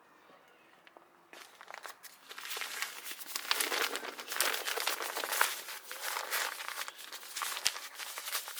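Crinkling and rustling of something being handled, starting about a second in as a dense run of small crackles.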